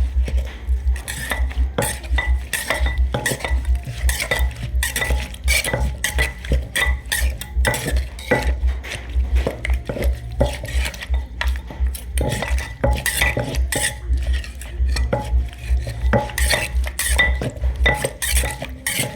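Pestle pounding and mixing a Thai pounded salad in a mortar: a steady rhythm of deep thuds, with sharp clinks and scrapes of a spoon or pestle against the bowl.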